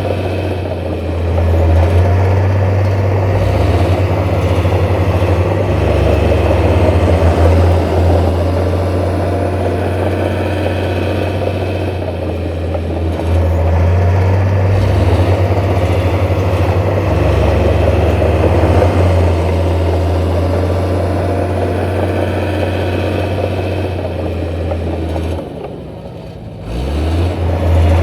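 Heavy diesel construction machinery running steadily with a deep, continuous engine hum. The sound drops away briefly about 25 seconds in, then comes back.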